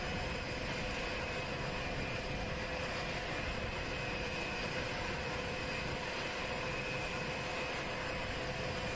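Jet aircraft engines running steadily: an even rush with a constant whine that does not rise or fall.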